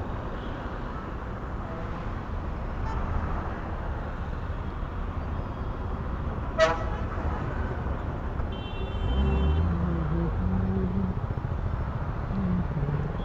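Slow-moving traffic with a steady low engine rumble. A short horn toot sounds about six and a half seconds in, and a longer horn sounds around nine seconds in as the engine noise rises.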